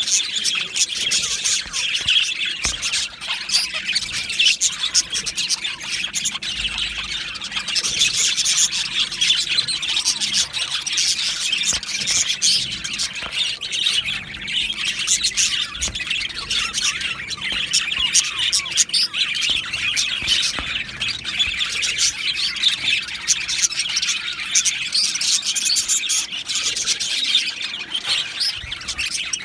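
Male budgerigars chirping and chattering without a break, a dense stream of rapid, high chirps.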